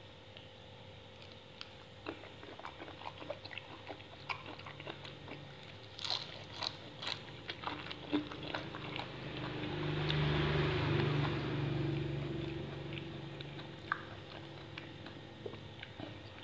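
Chewing and biting into raw shrimp cured in fish sauce with fresh greens, with many small crunchy clicks. About ten seconds in, a low hum swells and then fades over a few seconds.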